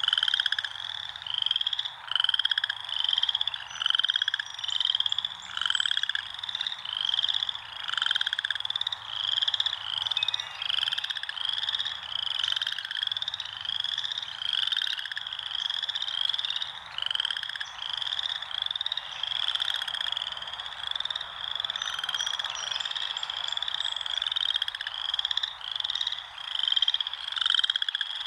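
A chorus of frogs calling: short calls overlapping and repeating about twice a second, without a break.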